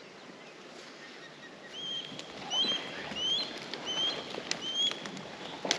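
Osprey calling: a series of about six short, rising whistled notes about half a second apart, with a few sharp clicks near the end.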